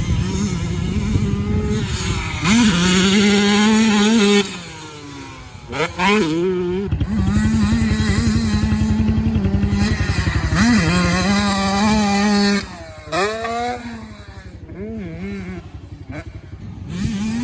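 Dirt bike engine at high revs on the throttle. It holds steady for stretches and drops off sharply twice, at about four and a half and twelve and a half seconds, with quick rising revs as it picks up again.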